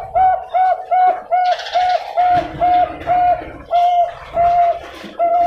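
Bangkok-strain zebra dove (perkutut) singing: a fast, rhythmic run of a dozen or more short coos on one pitch, about three a second, slowing slightly near the end.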